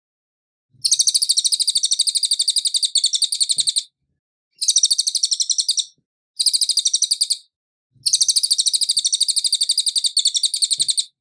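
Cililin songbird singing in four bursts of a fast, even trill of high, clear notes, about ten or more a second. The bursts are separated by short gaps, and the first and last are the longest.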